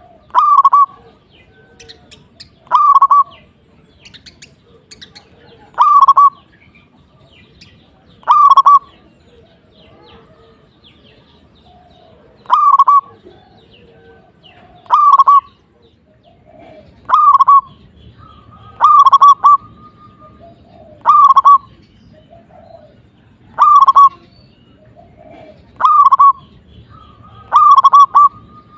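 Zebra dove (perkutut) cooing, with about a dozen short, loud calls roughly every two seconds, some coming in quick pairs. Fainter calls sound in between.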